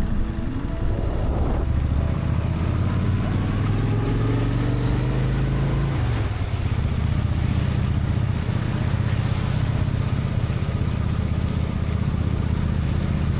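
Honda Shadow VT1100 V-twin motorcycle engine running under way. Its pitch climbs for the first six seconds or so, drops sharply, then holds steady.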